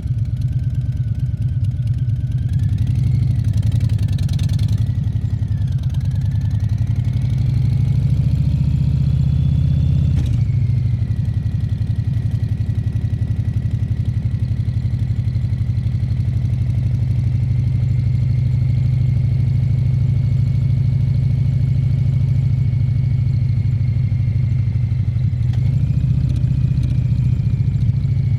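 Harley-Davidson Fat Bob 114's Milwaukee-Eight V-twin engine running under way. It climbs in revs over the first ten seconds, drops sharply at a gear change about ten seconds in, then holds a steady cruising speed, with a brief rise near the end.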